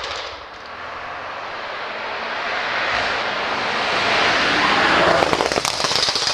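Tuned Audi RS6's twin-turbo V8 accelerating hard, its exhaust note building in loudness for about five seconds. Near the end it breaks into a rapid string of exhaust crackles and pops as the throttle comes off.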